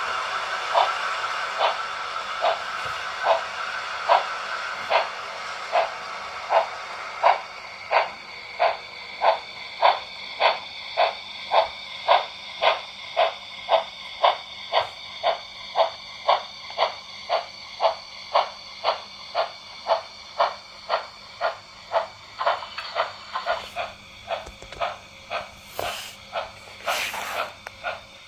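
Model steam locomotive's sound unit chuffing at a steady beat of about one and a half chuffs a second, with a steam hiss over the first several seconds and two short hisses near the end.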